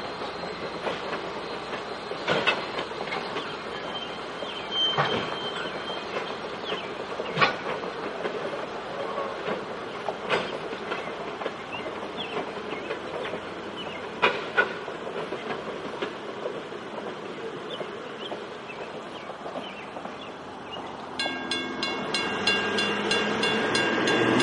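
Strasburg Rail Road passenger coaches rolling past, their wheels clicking and knocking irregularly over the rail joints, with a brief high squeal. Near the end a high ringing tone with overtones comes in and the sound grows louder.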